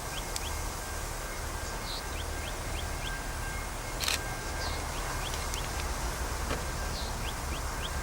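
Outdoor ambience of small birds chirping in short repeated rising notes over a steady low rumble, with a faint steady high-pitched tone throughout. A single sharp click comes about four seconds in.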